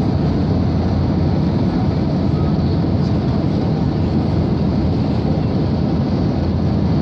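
Steady cabin noise of a Boeing 737-800 in flight: the roar of its CFM56 engines and rushing airflow, loud and unchanging, heaviest in the low range.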